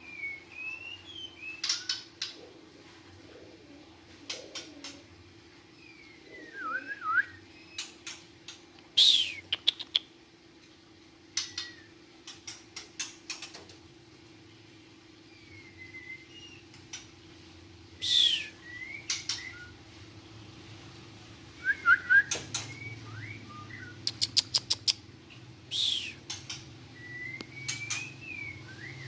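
White-rumped shamas calling: repeated runs of sharp rapid clicks mixed with short whistled glides, over a faint steady hum.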